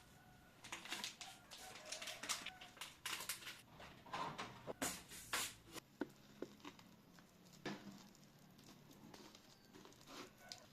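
Light tapping and clicking in quick irregular runs, busiest in the first six seconds and sparser after.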